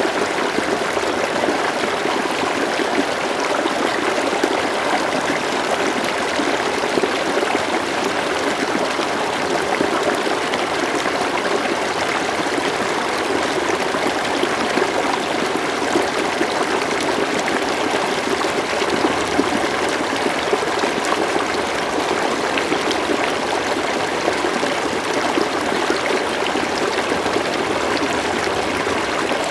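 River water flowing steadily over stones, a continuous even rushing and gurgling with no change.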